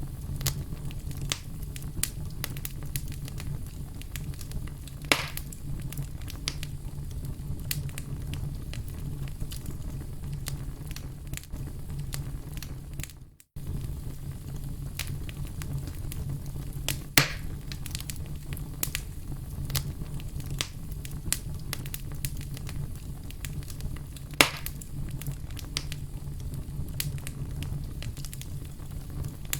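Wood fire crackling over a steady low rumble, with many small crackles and three louder pops. About halfway through the sound fades out briefly and comes straight back.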